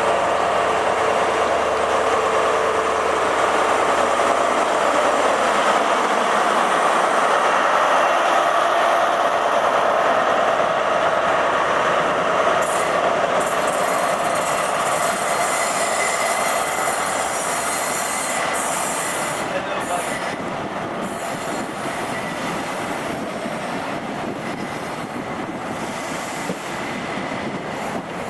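A train moving along the platform, its steel wheels squealing against the rails with some clickety-clack over the joints; the sound eases off gradually over the last ten seconds.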